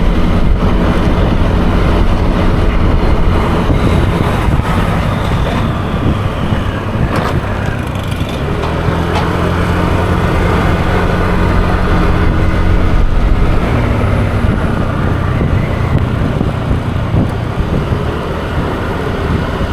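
Yamaha Aerox 155 scooter's single-cylinder engine running steadily at riding speed, with road and wind noise.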